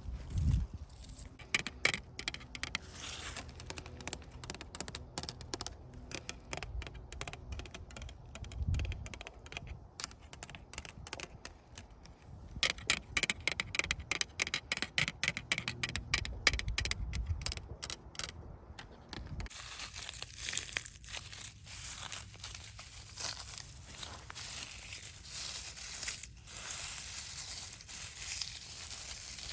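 Dense, irregular crackling and crinkling of dry leaves and twigs being scratched or crushed close to the microphone. About two-thirds of the way through it changes abruptly to a softer, hissier scratching.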